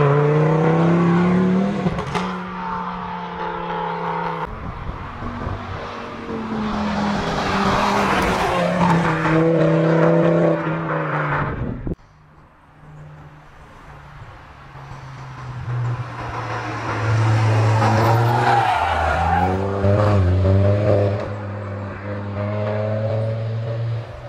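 Ford Focus ST225's turbocharged five-cylinder engine being driven hard: its pitch climbs and drops again at each gear change, several times over. About halfway through the sound cuts off abruptly to a quieter stretch, then the engine builds again at a lower pitch.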